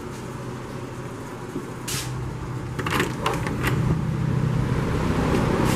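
Air conditioner running with a steady hum and a whoosh that grows louder about halfway through. A few sharp knocks come around two to four seconds in.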